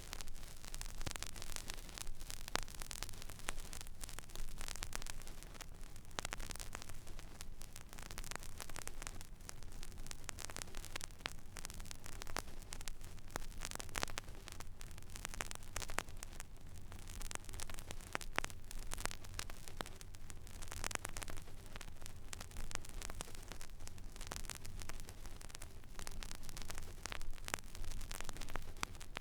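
Record player stylus tracking a silent vinyl groove: steady surface hiss with irregular crackles and pops, over a low hum.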